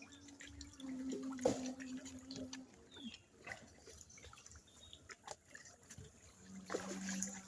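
Scattered drips and small splashes of water, with a low steady hum during the first few seconds and again near the end.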